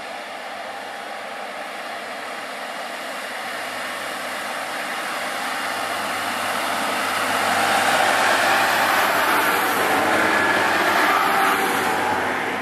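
SNCF X 73500 single-car diesel railcar passing by without stopping: its engine and wheels on the rails grow steadily louder, peak about eight seconds in, then start to fade as it goes by.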